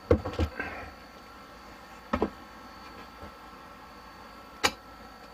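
Handling of PEX pipe and fittings: a brief rattle at the start, then a sharp click about two seconds in and a louder click near the end, over a faint steady hum.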